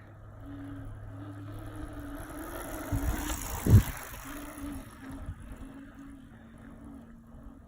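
Dirt bike engine running faintly, its note breaking off and coming back as the rider rides wheelies down a road, over a noisy haze, with one loud thump a little under four seconds in.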